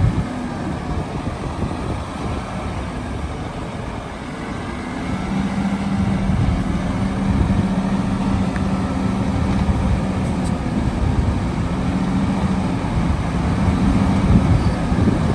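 Heavy diesel engine of an earthmoving machine running: a low rumble that grows louder about five seconds in, with a steady hum over it.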